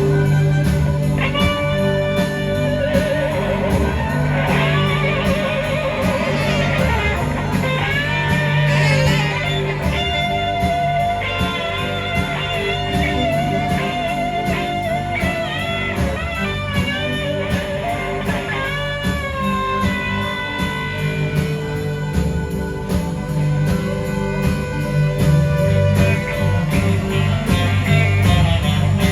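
A live blues-rock band playing an instrumental passage: an electric guitar leads with bent, wavering notes over bass and a steady drum beat.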